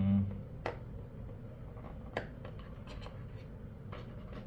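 Hands working a tightly fitting part out of a cardboard phone box: scattered light clicks and rubbing of packaging.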